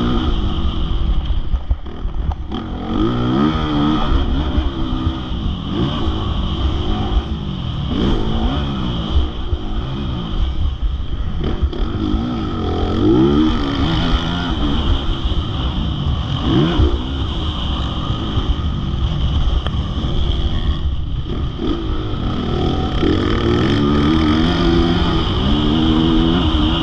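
Motocross bike engine revving hard and backing off over and over, its pitch climbing and dropping every second or two as the throttle opens and shuts through the gears, over a heavy low rumble.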